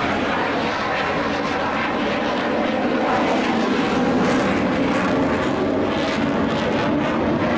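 Aircraft engine noise, steady and continuous, with a few sharp crackles about three to six seconds in.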